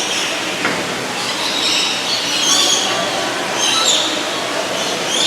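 Parrots screeching, harsh high-pitched calls repeating about once a second over a constant background hubbub.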